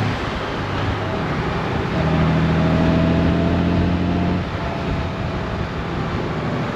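Honda Gold Wing's flat-six engine running under way over wind and road noise; the engine note drops away near the start and again about four and a half seconds in, pulling strongly in between as the throttle opens.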